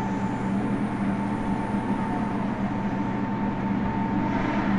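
Interior running sound of a Meitetsu 100 series motor car with Mitsubishi GTO-VVVF traction control, travelling at a steady speed: a continuous rumble of wheels on rail with a low hum and a held higher tone that does not change in pitch.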